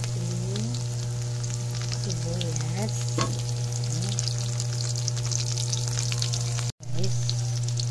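Garlic, ginger and shallots sizzling and crackling in hot oil in a wok, stirred with a wooden spoon, over a steady low hum. The sound cuts out abruptly for a moment near the end, then the sizzling picks up again.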